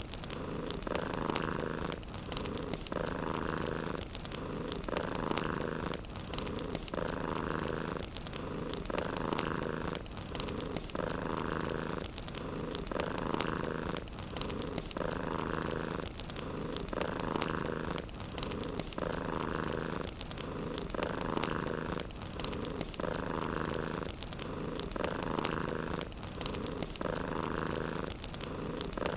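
Domestic cat purring steadily and rhythmically, each breath in and out making one swell, about one full cycle every two seconds.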